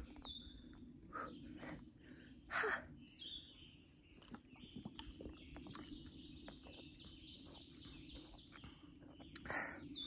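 Woodland birds calling, with short high falling whistles near the start and about three seconds in. A louder short rustle comes about two and a half seconds in, and faint clicks and rustles follow through the middle, over a steady low background hum.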